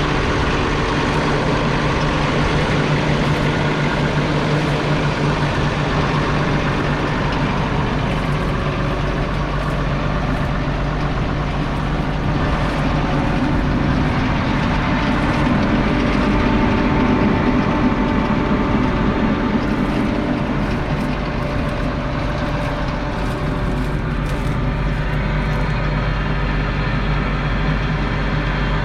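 Massey Ferguson 1200 tractor's 5.8-litre six-cylinder diesel engine running steadily, with a low, even note that swells slightly just past the middle.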